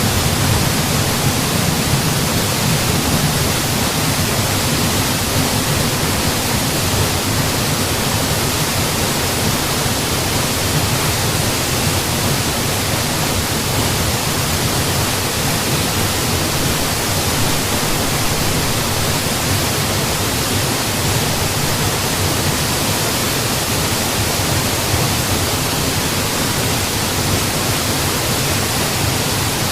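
Mountain waterfall pouring in a steady, even rush that never changes.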